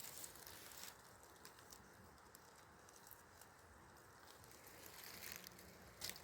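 Near silence: faint outdoor background hiss, with a few soft rustles in the first second and again near the end.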